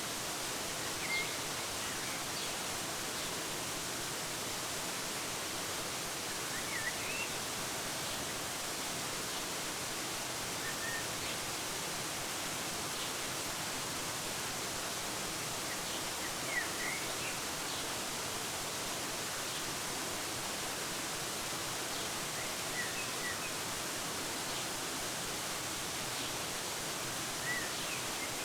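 Waterfall rushing steadily, with short bird chirps every few seconds.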